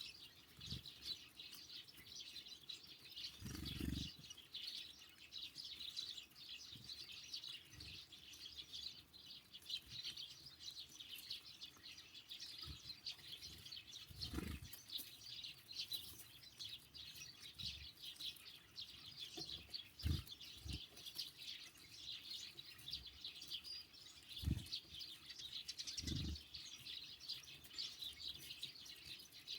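Small songbirds at a feeder chirping busily and continuously, with a few soft low thumps scattered through.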